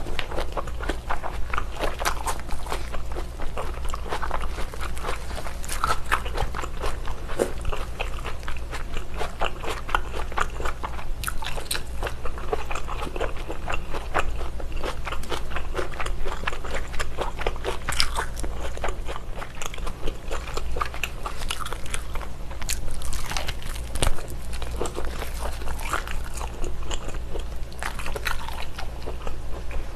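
Close-miked biting and chewing of a thick strip of baked whole slab bacon: a dense, irregular run of small clicks and crunches.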